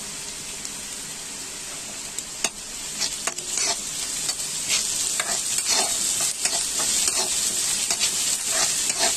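Chopped onion, green chilli and grated ginger-garlic sizzling in hot oil in a kadhai, with a spatula scraping and stirring against the pan. The sizzle and the scraping strokes grow louder about three seconds in, once stirring starts in earnest.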